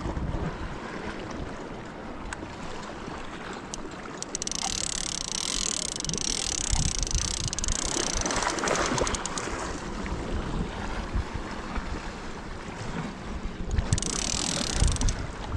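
Wind buffeting the microphone with a low rumble, and sea waves washing over rocks, with two spells of surging hiss, one a few seconds in and another near the end.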